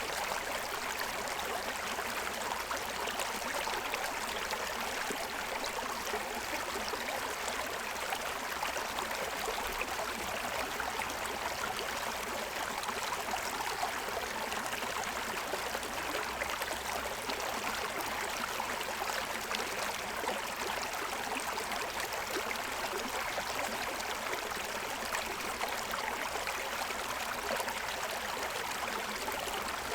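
Forest stream running over a stony bed: a steady rush of water.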